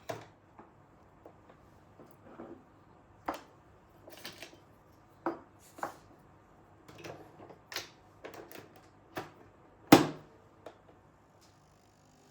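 Household handling sounds, likely kitchen items: a string of irregular knocks and clicks, the loudest about ten seconds in.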